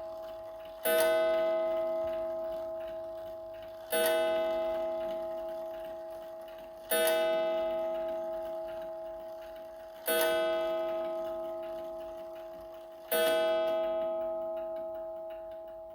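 Early-1920s Seth Thomas beehive mantel clock striking the hour: five slow, evenly spaced strikes about three seconds apart, each ringing out and fading before the next. The ringing from an earlier strike is still dying away at the start.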